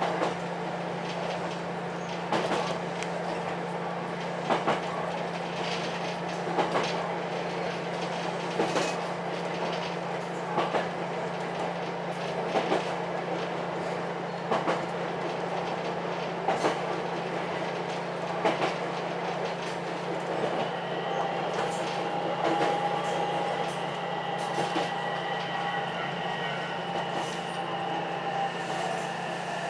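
Ichibata Electric Railway 7000-series electric railcar running, heard from inside, with a steady low hum and a double clack of wheels over rail joints about every two seconds. After about twenty seconds a high whine with several pitches comes in and slowly falls in pitch near the end as the train slows on its approach to a station.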